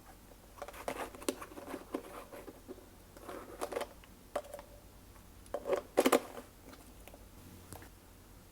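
Glossy slime being worked by hand, giving irregular runs of sticky clicks and squishes. The loudest cluster comes a little after halfway.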